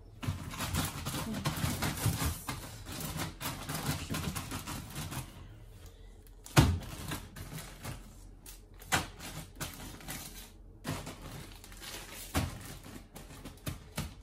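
Food in plastic Ziploc bags being handled and packed into a freezer: irregular rustling and clattering, with a sharp knock about six and a half seconds in and a few lighter knocks later.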